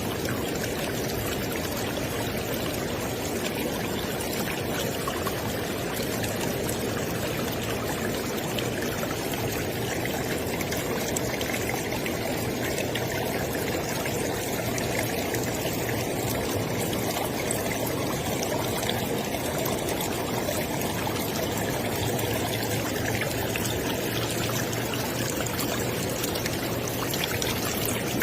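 A river or stream flowing steadily, its water rushing and trickling in an even wash of noise.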